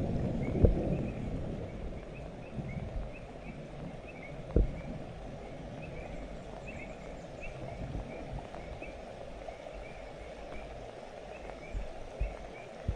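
Thunder rumbling and fading away over the first couple of seconds, leaving a steady outdoor background with faint, high chirps repeating throughout. A few short knocks stand out: one just under a second in, one about halfway through, and a small cluster near the end.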